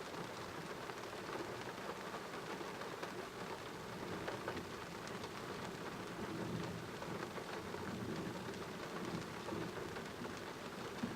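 Rain falling steadily during a thunderstorm, with a low rumble of thunder in the middle.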